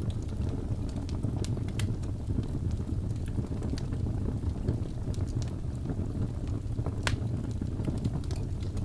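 Wood fire burning in a fireplace: a steady low rumble of flames with scattered sharp crackles and pops, one louder pop about seven seconds in.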